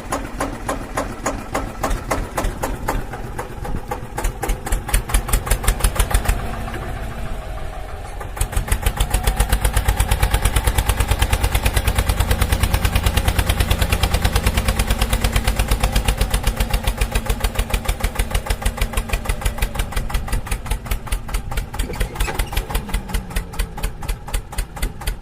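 Engine chugging at a steady idle, a rapid even beat of knocks with a deep low end, which gets louder and more regular about 8 seconds in.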